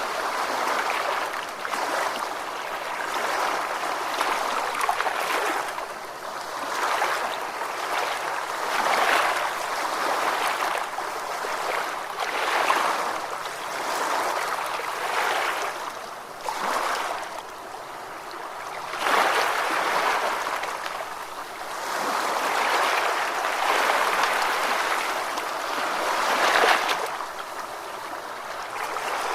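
Ocean waves washing in, a continuous rush of water that swells and eases every few seconds.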